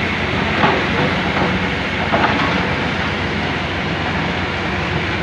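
Excavator's diesel engine running steadily, with a few sharp metallic clanks from the machine about a second apart early on and again near the end.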